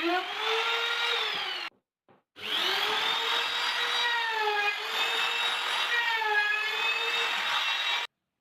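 Small electric power tool motor running with a whine whose pitch sags and recovers as it is loaded against wood. It stops suddenly a little under two seconds in, starts again and spins up, then cuts off abruptly near the end.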